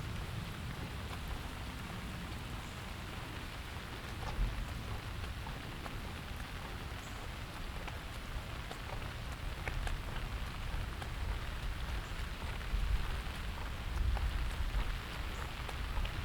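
Steady rain falling, with scattered single drops ticking close by. A low rumble swells near the end.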